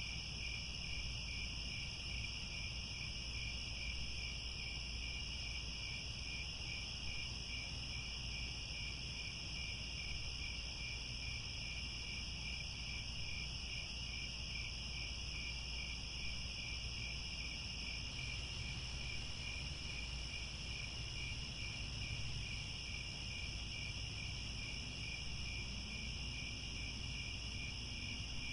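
A dense chorus of crickets trilling without pause: one steady high trill and a lower one that pulses evenly, over a steady low rumble.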